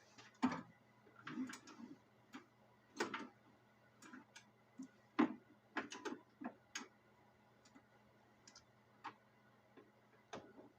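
Irregular light clicks and knocks, about a dozen scattered through, over a faint steady hum; no engine is running.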